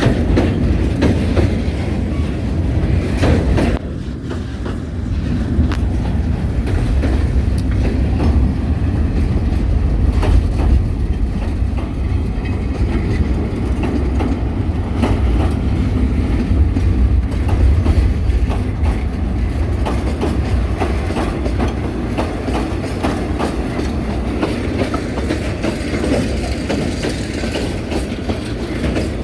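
Train running on the rails, with a heavy steady rumble and irregular clicks of the wheels over the rail joints. It drops a little in loudness about four seconds in.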